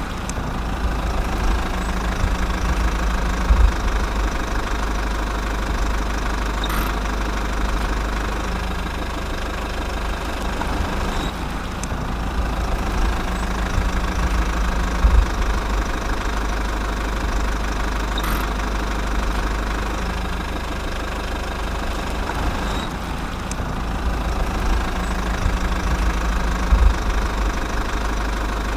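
Tractor-like engine running steadily with a low, continuous rumble, joined by a few short clicks.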